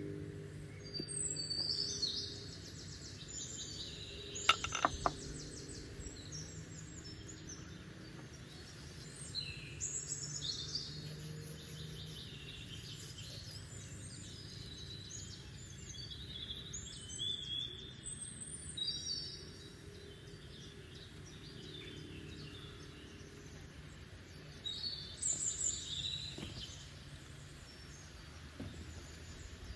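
Birds chirping in short bursts, several times, over a steady low background noise, with a few sharp clicks about five seconds in.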